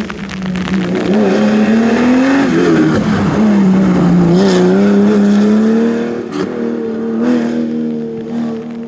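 Historic rally car engine under hard acceleration, its note climbing and dropping with gear changes. It grows louder about a second in and falls away after about six seconds, with a few short sharp cracks.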